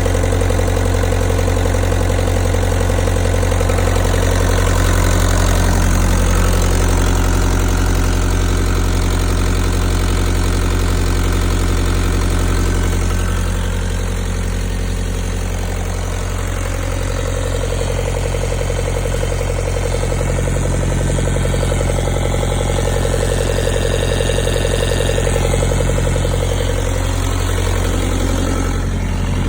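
Kubota 2.2-litre four-cylinder diesel engine running steadily at idle, its pitch shifting slightly about halfway through and again near the end.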